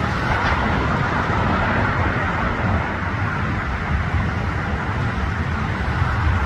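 Steady engine roar from outdoor traffic, with deep rumble and a broad hiss and no distinct events.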